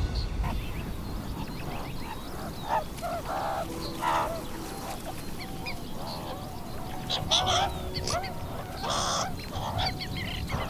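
A flock of birds calling: many short, overlapping calls coming irregularly, with a few louder ones about four, seven and nine seconds in, over a faint outdoor background.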